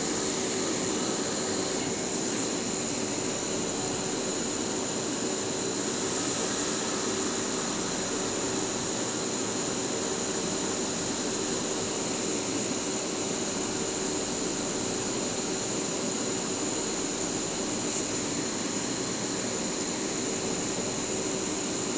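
Steady whir of an electric fan or air-conditioning unit with a faint high whine, unchanging throughout, with a couple of faint ticks.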